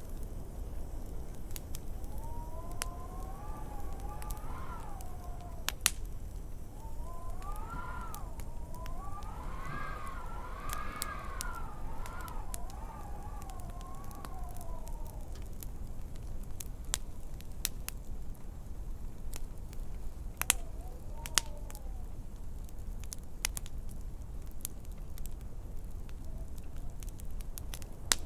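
Wood fire crackling with scattered sharp pops over a steady low rumble, while wind howls in whistling tones that rise and fall in pitch through the first half and come back briefly about twenty seconds in.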